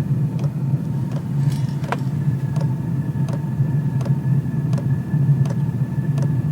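Chinese diesel air heater running just after lighting: a steady combustion rumble and fan hum with a faint whine, and the fuel dosing pump ticking about two to three times a second.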